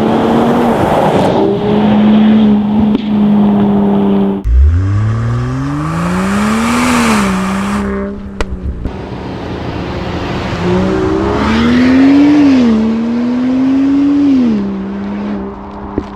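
Land Rover Defender P400's inline-six petrol engine running through a Quicksilver stainless-steel exhaust: a steady drone, then after an abrupt cut about four seconds in, the engine revs climb steeply under acceleration and ease off, with a second climb and drop-back near twelve seconds.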